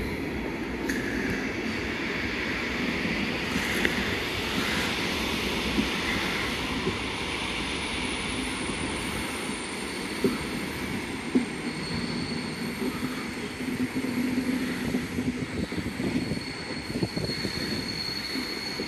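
Intercity passenger coaches rolling slowly over the station tracks, with a steady rumble of wheels on rail. A couple of sharp clacks come a little past halfway as wheels cross rail joints. A thin high wheel squeal sets in about two-thirds of the way through and holds on.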